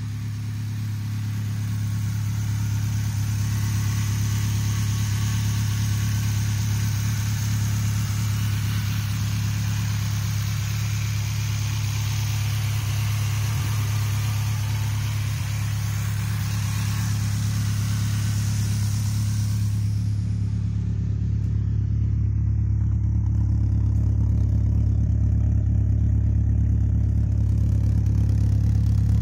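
Ford 2.5L four-cylinder with individual throttle bodies and long-tube headers, idling steadily. A bright hiss and clatter sits over the deep exhaust note for about the first twenty seconds, then fades, leaving mostly the steady low note, which grows louder near the end.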